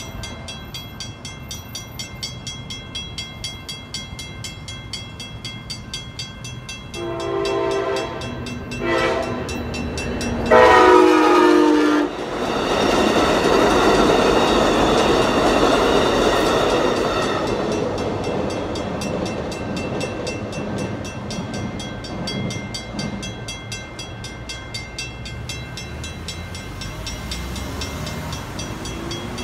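Railroad crossing bells ringing steadily as an Amtrak Pacific Surfliner passenger train approaches. The train's horn sounds three blasts, long, short, then a longer and louder one. Then the train rolls through the crossing with a loud rush of wheels on rails and some clickety-clack, which slowly fades while the bells keep ringing.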